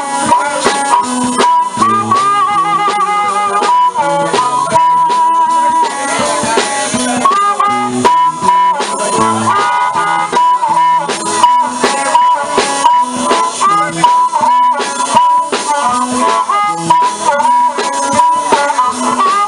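Live blues band playing an instrumental passage: a harmonica lead with long held and bent notes over guitar, a stepping bass line and drums.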